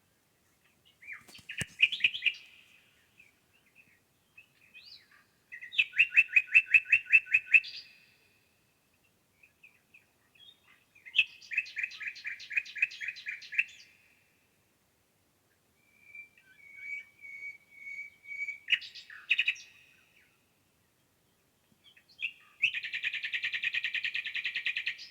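A songbird singing: rapid trilled phrases of about two seconds each, repeated several times with short gaps, and a few shorter chirps and calls between them.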